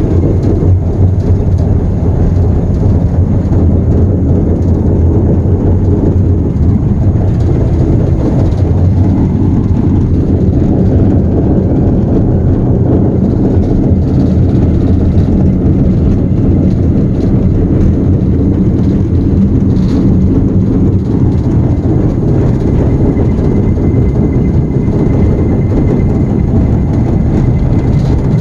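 Steady drone of a 1942 diesel locomotive's engine at low throttle while the locomotive slowly coasts down.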